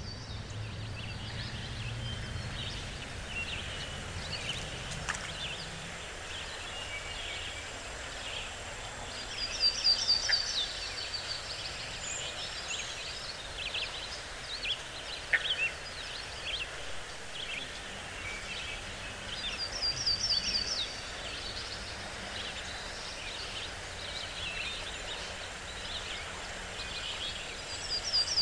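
Forest birds calling over a steady background hiss: many short chirps and calls, with one bird repeating a short, fast trill of rapid notes three times, about ten seconds apart. The trill is the loudest sound.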